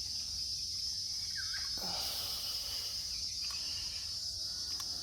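Steady high-pitched insect chorus, with a brief rustle about two seconds in.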